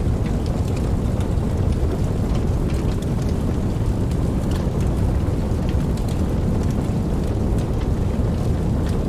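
Steady rain falling, with scattered single drops ticking, over a constant deep rumble.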